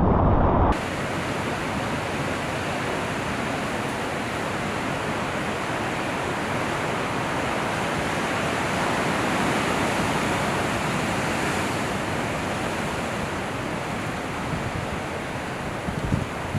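Loud low rumble that cuts off abruptly under a second in, then a steady rush of big ocean surf and whitewater, with a few small knocks near the end.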